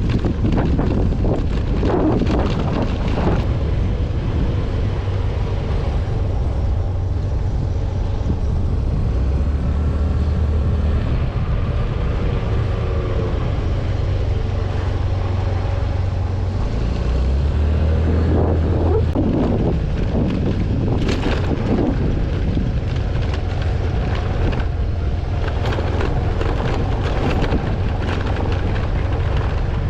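A vehicle engine runs steadily under load on a rough road, its pitch shifting noticeably twice, about a third and two thirds of the way in, with wind buffeting the microphone.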